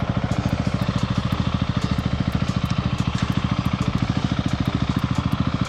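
Adventure motorcycle engine idling steadily, with an even, rapid pulse.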